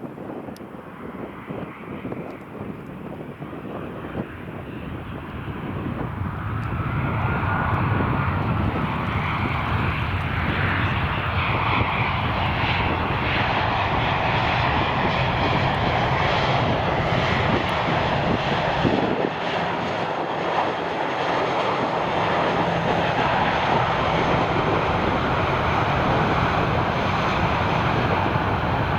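Jet aircraft engines growing louder over the first several seconds, then running loud and steady as the plane passes close.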